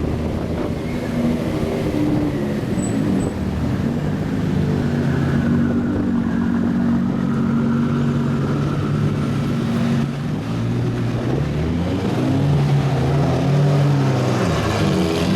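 Supercar engines running as the cars pull away, their engine notes stepping up and down with throttle and gear changes, several overlapping.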